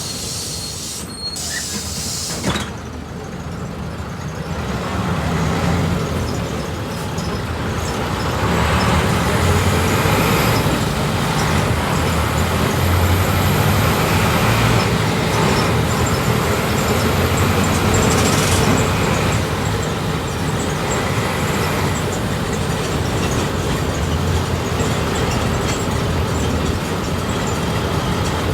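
Volkswagen 17.230 OD city bus heard from inside the cabin: a hiss of air cuts off with a knock about two and a half seconds in, then the engine pulls away and grows louder as the bus accelerates, easing slightly near the end.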